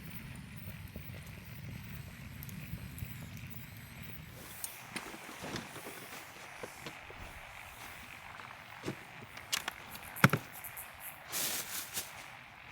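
Frogs croaking in the background, with scattered sharp knocks and clicks, the loudest about ten seconds in, and a short rustle near the end.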